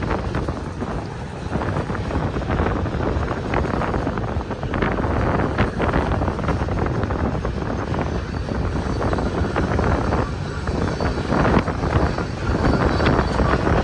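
Freight trains rolling past with a steady rumble of cars and irregular wheel knocks and clatter, mixed with strong wind buffeting the microphone.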